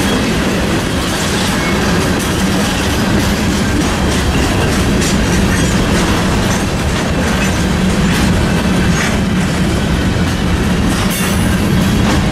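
A CSX freight train's tank cars and covered hopper cars rolling past close by. Steady rumble with the steel wheels clattering over the rail joints.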